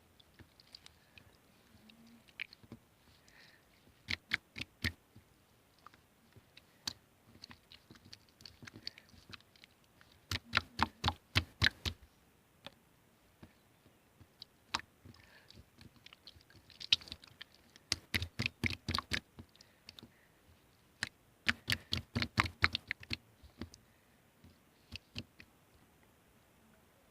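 Sharp clicks in quick runs, several dense bursts of rapid clicks lasting a second or two each, with scattered single clicks between.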